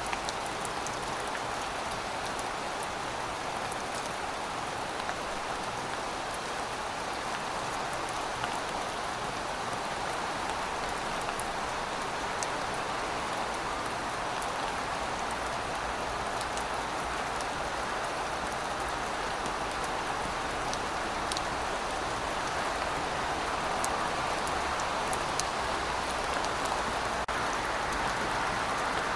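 Heavy rain falling steadily: a dense, even hiss with scattered small drop ticks.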